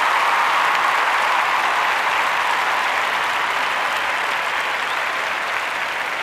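Crowd applause, a steady dense clapping that slowly fades.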